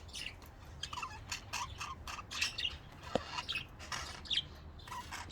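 Pet budgerigars chirping and warbling: a song made of a quick, irregular string of short chirps.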